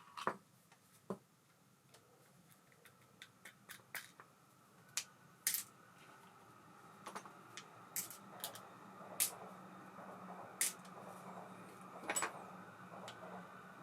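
Small metal clicks and taps from an Ambassadeur 5500C baitcasting reel being handled and worked on, irregularly spaced. From about halfway a faint steady mechanical whirr builds underneath.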